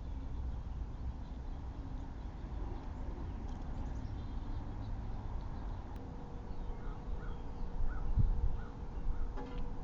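A low, steady outdoor rumble, with a crow cawing about six times in quick succession in the second half.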